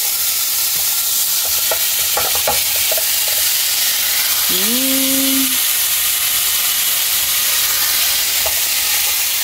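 Beef steaks frying in a hot pan: a steady, even sizzle, with a few light clicks about two seconds in.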